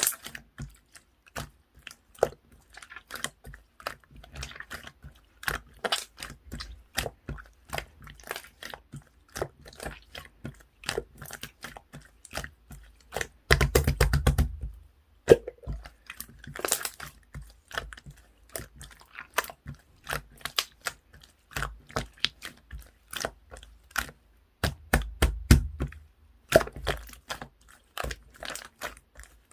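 Pearl slime being squeezed and poked by hand, giving a steady run of small sticky clicks and pops. There are heavier, denser squishes about halfway through and again near the end.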